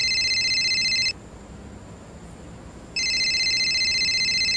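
Cell phone ringing with an electronic ringtone, a rapid high trill in ring bursts of about two seconds: one ring stops about a second in and the next starts two seconds later.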